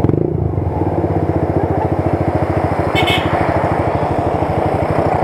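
Motorcycle engine running at a steady speed with an even, fast putter of about a dozen beats a second, plus a brief high-pitched squeak about three seconds in.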